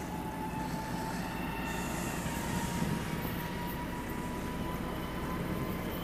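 Approaching freight train hauled by an electric locomotive: a steady low rumble with a faint high whine that rises slightly in pitch.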